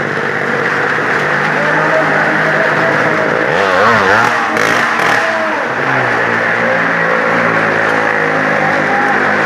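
Motor vehicle engines running over a steady background din, with an engine revving up and down about four seconds in.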